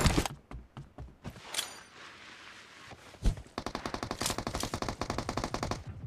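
Video game gunfire. Single shots come near the start and about three seconds in, then a steady burst of automatic fire, about ten rounds a second, fills the last two and a half seconds.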